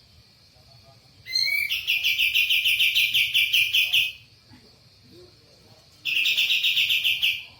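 A songbird singing two fast trilled phrases of rapidly repeated high notes, about seven a second. The first phrase opens with an upward slide and lasts about two and a half seconds; the second, shorter one comes near the end.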